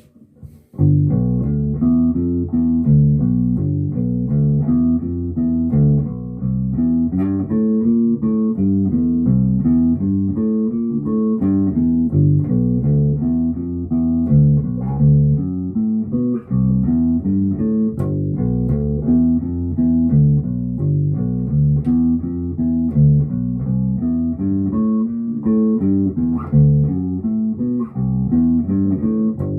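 Fender Precision electric bass played through an Ampeg BA-110 bass combo amp, a continuous run of plucked bass notes starting about a second in.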